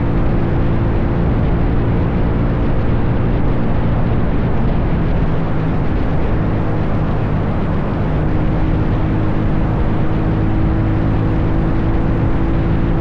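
Dirt bike engine running steadily under way, with a slight change in engine note and a brief dip in loudness about eight seconds in.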